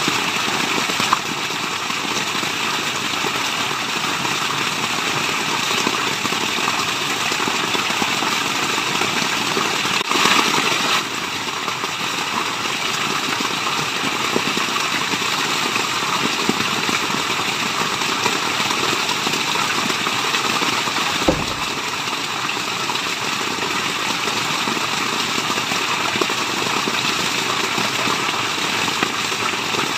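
Steady rushing water, an even continuous noise, with a brief louder swell about ten seconds in and a short low thud about two-thirds of the way through.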